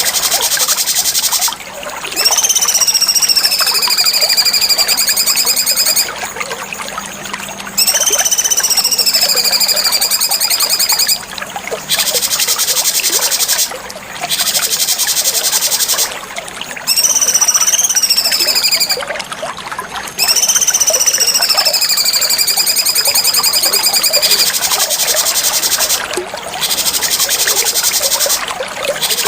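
Cucak cungkok song: four long whistled notes, each sliding down in pitch and then holding with a slight waver. They sound over a dense, high, insect-like buzzing chorus that cuts out briefly several times.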